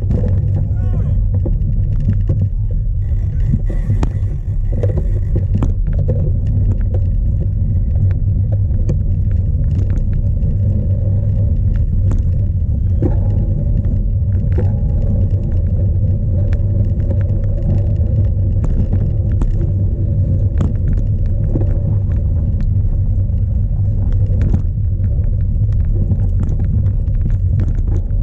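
Steady low rumble of strong wind buffeting an onboard action-camera microphone on a cyclocross bike, with scattered sharp clicks and rattles from the bike over rough ground.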